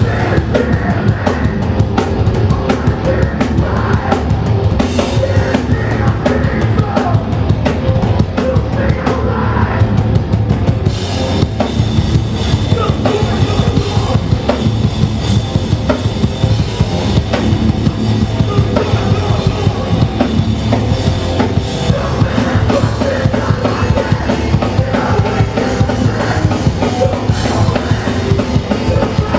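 Hardcore punk band playing live and loud: a fast, pounding drum kit with bass drum under a dense wall of bass and guitar.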